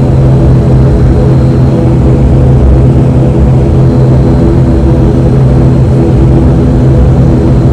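ATR 72-500's twin turboprop engines running steadily as heard inside the cabin, a loud, even drone with a low propeller hum, while the aircraft taxis toward the runway threshold.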